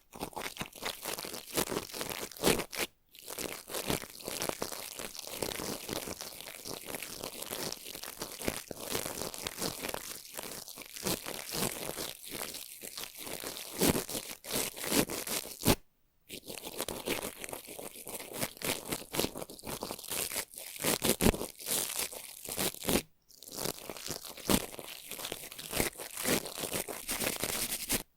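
Brush bristles being scratched and swept in quick, dense strokes for ASMR, a crackly, prickly texture that breaks off briefly three times.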